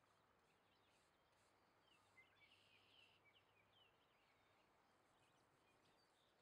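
Near silence with faint birds chirping, a short run of chirps about two to three seconds in.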